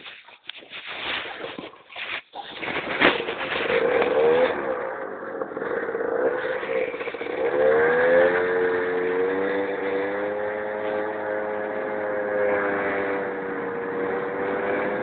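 Keeway Hurricane scooter engine pulling away and riding. Scattered knocks and rustles come in the first three seconds. Then the engine note picks up, rises in pitch about eight seconds in, and holds a fairly steady tone at cruising speed.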